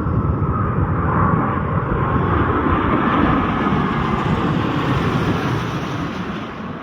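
Airbus A330-243 airliner on landing approach, its two Rolls-Royce Trent 700 turbofans passing as a loud, wide rush of jet noise with a faint whine. The noise is loudest about one to three seconds in, then fades steadily as the jet moves away.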